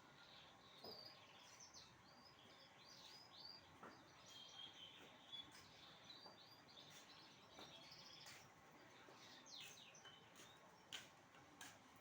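Songbirds chirping and twittering faintly in many quick, high chirps, with a few sharp clicks near the end.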